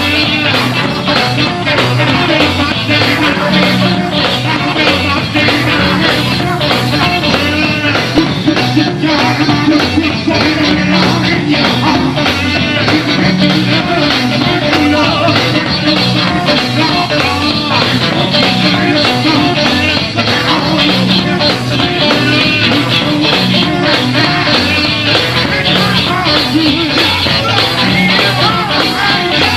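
Live gospel quartet band playing an up-tempo number with a steady beat, voices singing over the instruments.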